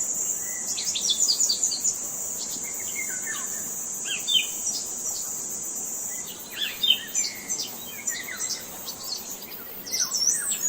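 Several birds chirping, with bursts of short, quick notes, many of them sweeping downward, over a steady high-pitched insect buzz that stops near the end.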